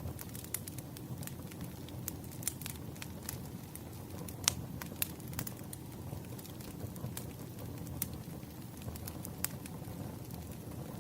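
Wood fire crackling: irregular sharp pops and snaps over a low steady rumble of flames, with one louder pop about halfway through.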